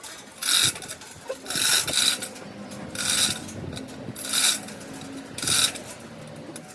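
Hand tool rasping on metal in steady repeated strokes, about one a second, like filing or sawing by hand. A faint low hum runs beneath the strokes.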